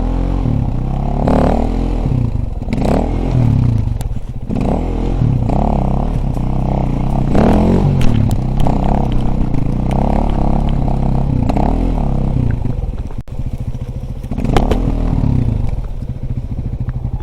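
Dirt bike engine revving up and falling back again and again as the bike is ridden, with clattering over it. Near the end it settles into a lower, steady putter.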